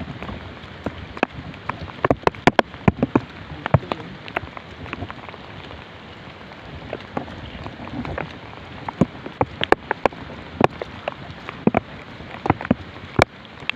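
Rain falling steadily, with many sharp, irregular taps of drops striking close to the microphone.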